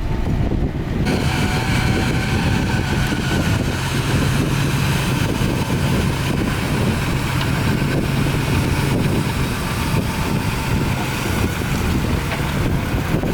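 Heavy diesel engine of earthmoving equipment running steadily under load, a low hum. About a second in, a higher whine and clatter join it.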